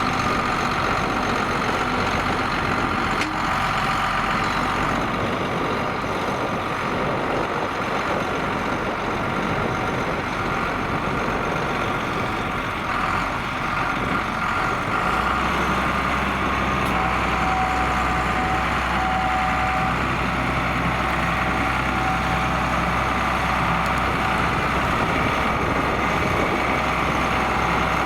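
John Deere 4850 tractor's six-cylinder turbocharged diesel engine running steadily while pulling a six-furrow plough. The low rumble grows stronger about halfway through.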